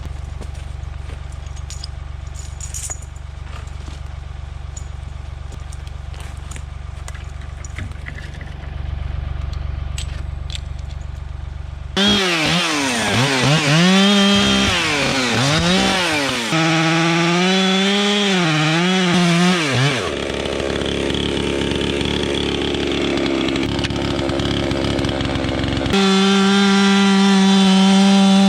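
A low steady rumble with scattered faint clicks for about twelve seconds. Then a chainsaw starts cutting into a tree, its pitch dropping under load and rising again as it revs free, in several abruptly cut stretches; near the end it runs at a steady high speed.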